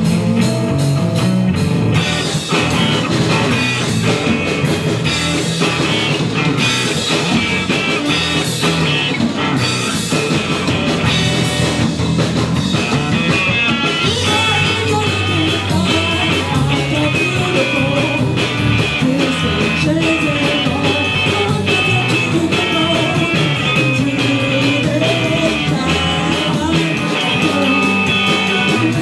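Live rock band playing, with guitar, drums and singing.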